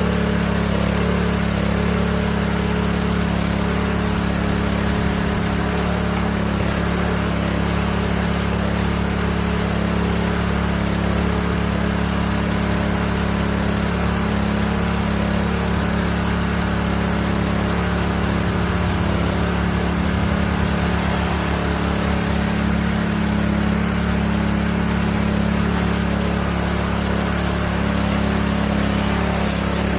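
Classen TR-20 power rake (dethatcher) with its small engine running steadily at constant speed, freshly cold-started and running smooth.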